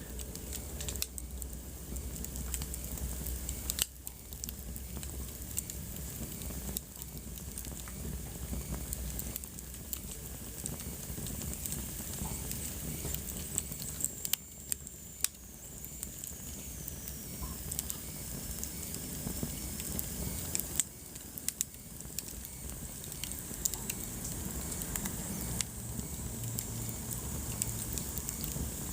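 Wood fire burning in a fireplace, crackling with frequent irregular pops over a steady soft hiss of flames. A faint high whistle slides down in pitch about halfway through.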